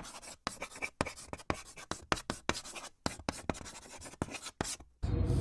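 A quick, irregular run of sharp clicks and scratchy taps, several a second, which gives way just before the end to a steady low hum.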